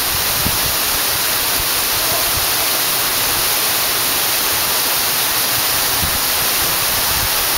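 Steady rush of an 80-foot waterfall: falling water making an even, unbroken hiss.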